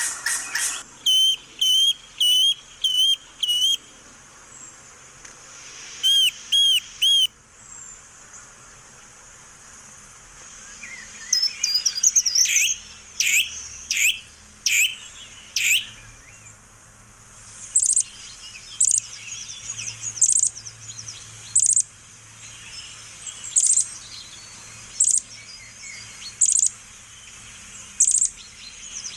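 A parrot giving short, high, repeated calls: a quick run of about five in the first few seconds, three more about six seconds in, a busier cluster of calls, then single calls roughly every second and a half.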